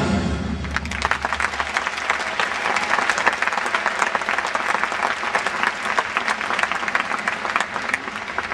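An audience clapping after a marching band's number, with the band's last sound dying away in the first second.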